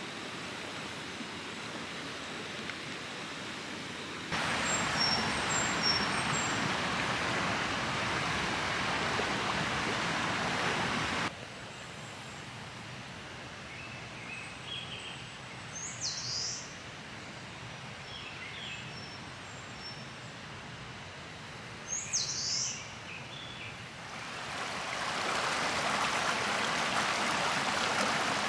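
Flowing river water, an even rushing that jumps louder and softer at sudden cuts. In the quieter middle stretch, birds chirp a few times, including two sharp downward-sweeping calls.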